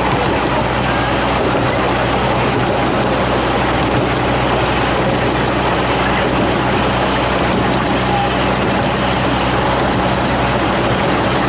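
Steady running noise of a small-gauge ride-on train rolling along the track at speed, heard from one of its moving cars: an even rushing rumble with a low hum underneath.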